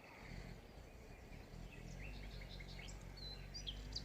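Small birds chirping and twittering outdoors in short, repeated calls, over a steady low hum that starts just after the beginning.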